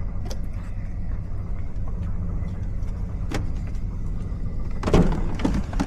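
Steady low rumble of a car's road and engine noise heard from inside the cabin, with a brief louder sound about five seconds in.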